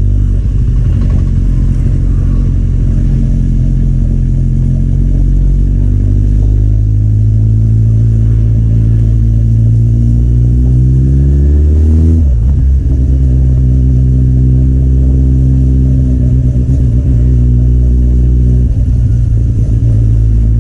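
Kawasaki Z800's inline-four engine with an Akrapovic exhaust, under way: the pitch climbs steadily under acceleration for several seconds, drops sharply at a gear change about halfway through, then holds fairly steady.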